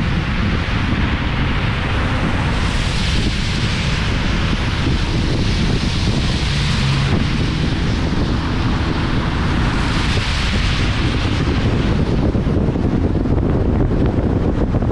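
Wind buffeting the microphone of a roof-mounted GoPro on a moving car, a steady loud rumble under road noise, with the hiss swelling a few times.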